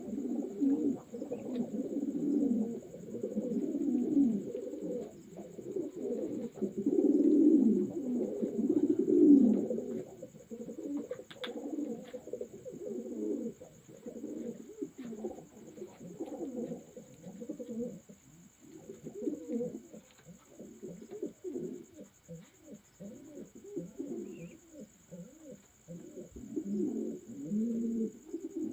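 Many fancy pigeons cooing together, their low warbling coos overlapping, loudest in the first ten seconds and thinning out after. A single sharp click comes about halfway through.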